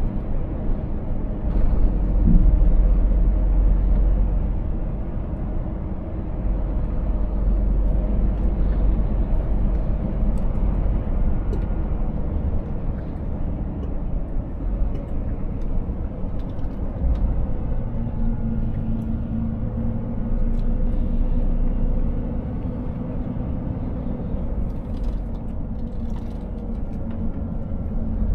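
Scania 500S truck driving along, its 13-litre straight-six diesel running steadily under a continuous low road rumble. A steadier engine note comes in about two-thirds of the way through.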